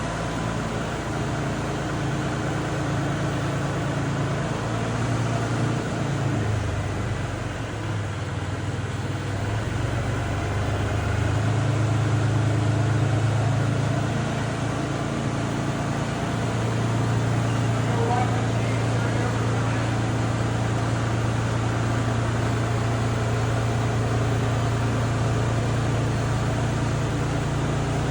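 Kubota tractor engine running steadily, its speed picking up a little about a third of the way in and shifting again a little later, as it works to move the truck bed.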